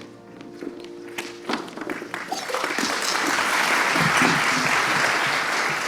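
Audience applauding at the end of a song. The clapping builds up about a second and a half in, as the last held chord dies away, and stays full and steady through the rest.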